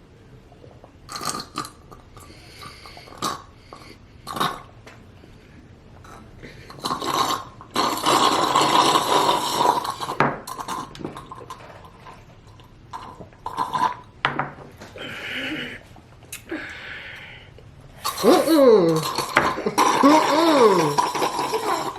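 Thick baby food being sucked hard through straws from glass jars: noisy slurping in stretches, loudest from about seven to ten seconds in and again near the end. Clinks and taps of the glass jars come in between.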